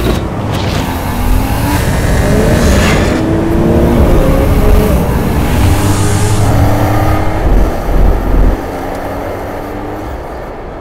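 Porsche 911 GT3 RS's naturally aspirated flat-six engine revving hard under acceleration. Its pitch climbs in several rising sweeps, then fades near the end as the car draws away.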